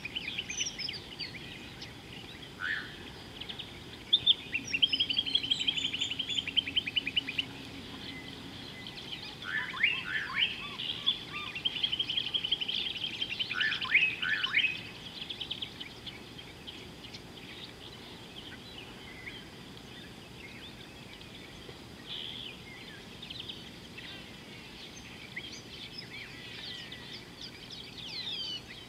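Several wild birds calling: bursts of fast trilled chirps and sharp sweeping calls, busiest in the first half and sparser later, over a steady hiss.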